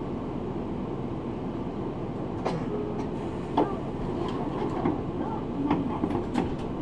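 Inside a route bus's cabin: a steady engine and road rumble, with scattered sharp rattles and clicks of fittings starting about two and a half seconds in.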